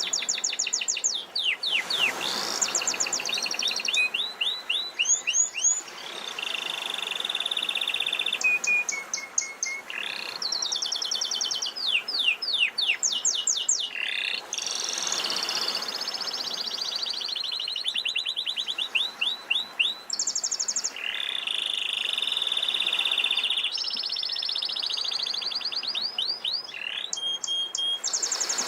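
Domestic canary singing a continuous song of fast rolls of repeated high notes and trills, switching phrase every second or two. Sea waves wash underneath, swelling and ebbing a few times.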